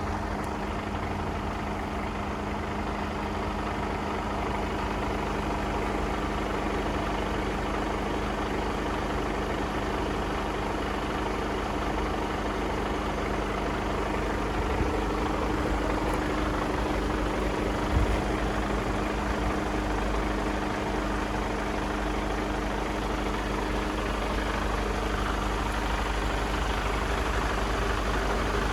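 Mercedes Actros 1842's 12.8-litre straight-six diesel engine idling steadily, with two short knocks about halfway through.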